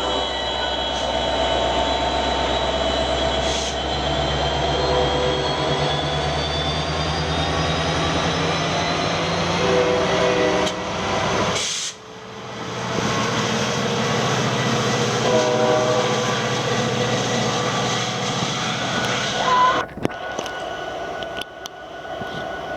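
Train running with a steady low engine drone and a high whine that slowly rises, with two short horn sounds. The sound cuts off abruptly about halfway through, picks up again, and changes abruptly near the end.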